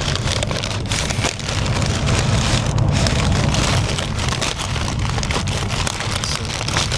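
Paper and plastic food packaging crinkling and rustling as a fast-food meal is unpacked, a dense run of small crackles. Under it runs the steady low rumble of the high-speed train.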